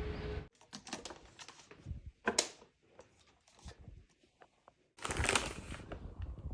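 Scattered small clicks, taps and rustles of something being handled, with a louder rustle about five seconds in.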